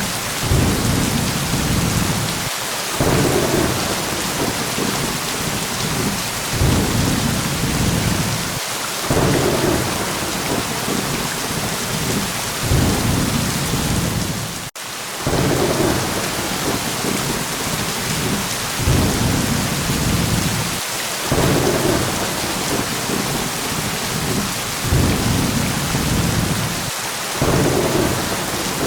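Steady heavy rain with low thunder rumbles that swell and fade every couple of seconds, and a brief drop-out in the sound about halfway through.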